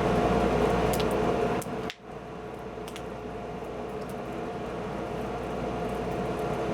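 Wood fire burning with a steady rush and a few sharp crackles. The sound drops sharply about two seconds in and carries on quieter.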